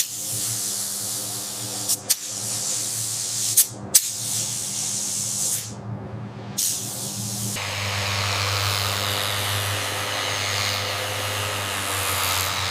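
Paint spray gun hissing in short bursts with brief stops and clicks, then spraying continuously from a little past the middle, over a steady low hum.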